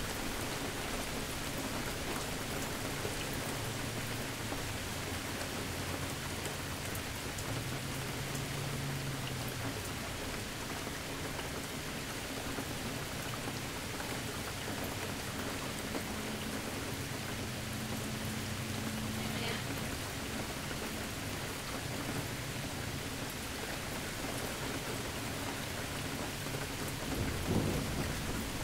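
Steady rain falling in a thunderstorm, with low thunder rumbling twice and a sharper, louder clap of thunder near the end.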